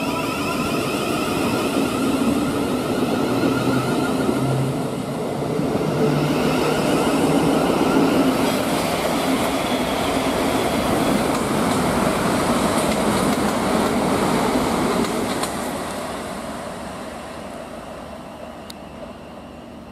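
Thameslink Class 700 electric trains running through the station: a continuous rush of wheels and carriages on the rails, loud for most of the time and fading away over the last few seconds.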